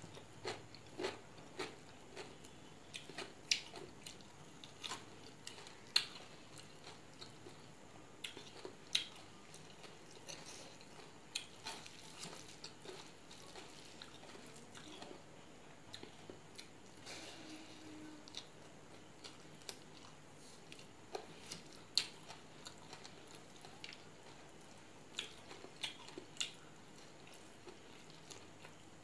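Close-up eating sounds: a person chewing a mouthful of rice and side dishes, with irregular sharp clicks and crunches between chews.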